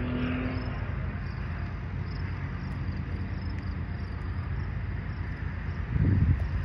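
Steady low rumble of an approaching Union Pacific diesel freight train, with a short pitched tone fading out in the first moment and a louder low burst about six seconds in.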